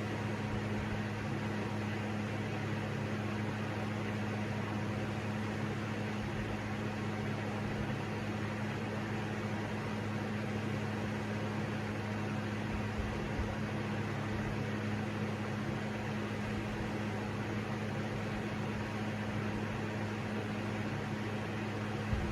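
Electric fan running steadily: an even whir of moving air over a constant low hum. The SMC Laguna ceiling fan is nearly silent, so most of what is heard is a portable fan.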